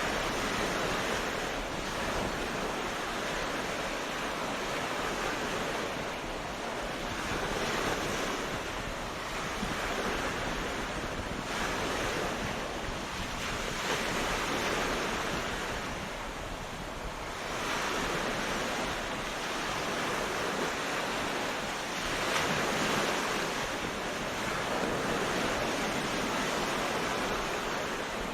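Sea waves washing onto a beach: a continuous surf noise that swells and eases every few seconds.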